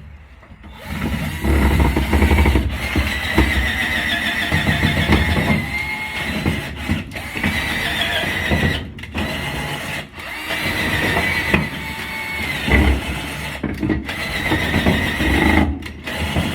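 Two cordless drills running at once, boring holes into wood. Their motors whine, and the pitch sags and recovers as the bits bite. The drilling pauses briefly a few times.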